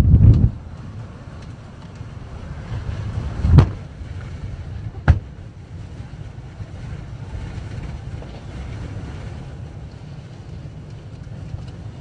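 Storm-force blizzard wind buffeting the microphone in a steady low rumble, with loud gusts right at the start and about three and a half seconds in. A single sharp knock about five seconds in.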